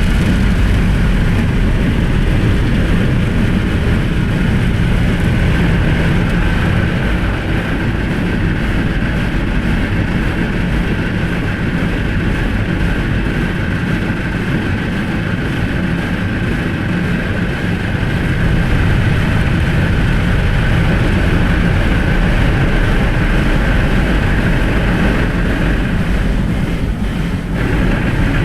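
Automatic car-wash rotating brushes scrubbing over the car with water spraying, heard from inside the car's cabin as a steady, loud noise that briefly eases near the end.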